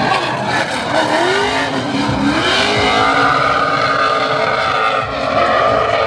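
Drift cars on track, engines revving hard with the pitch rising twice in the first few seconds and then held high, over tyre squeal.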